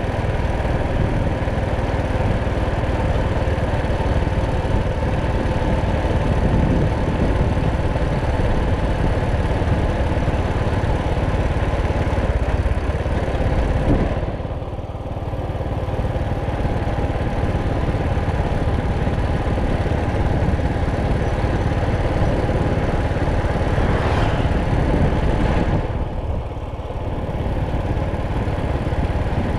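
Motorcycle engine running steadily while riding, its note dropping away briefly twice, about halfway through and again near the end.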